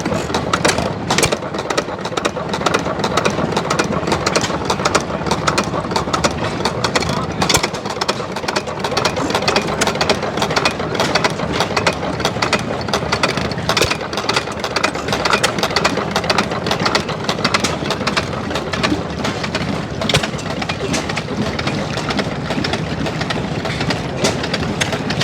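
Several antique stationary gas engines running together, a continuous mix of chugging and clicking.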